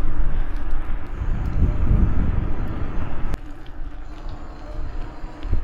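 Wind buffeting the microphone with road noise while riding a bicycle, a rough low rumble that drops off sharply after a click about three and a half seconds in.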